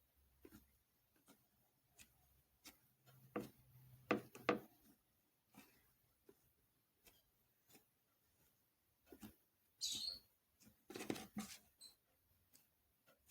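Faint kitchen handling sounds: scattered light taps, knocks and rustles as food and utensils are moved. A louder cluster comes about four seconds in and another near ten to eleven seconds.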